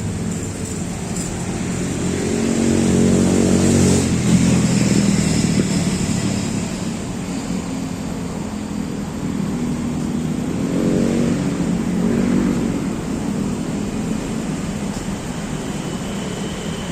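Motor vehicle traffic on a nearby road, with engines swelling as vehicles pass: loudest about three seconds in and again about eleven seconds in, over a steady traffic hum.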